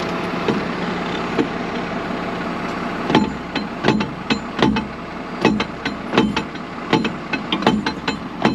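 A tractor engine idles steadily. From about three seconds in, sharp knocks sound roughly twice a second over it: hammering on the snowblower while a broken shear pin is being worked out.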